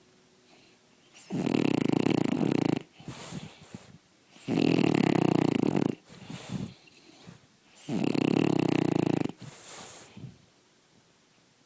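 A sleeping dog snoring loudly: three long snores about three seconds apart, with quieter, broken breathing between them and a short pause near the end.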